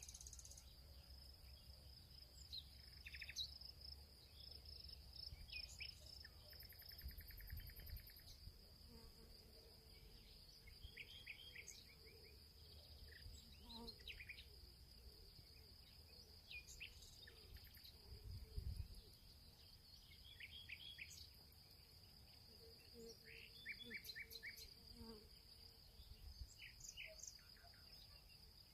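Faint field ambience: a steady high-pitched insect trill, with short bird chirps in quick runs of three or four repeating every few seconds, over a faint low rumble.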